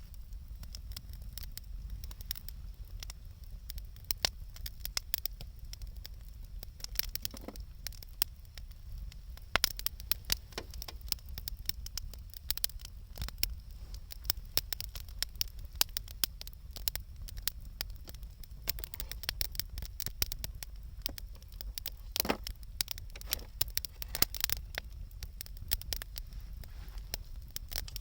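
Wood campfire crackling, with irregular sharp snaps and pops several times a second over a steady low rumble.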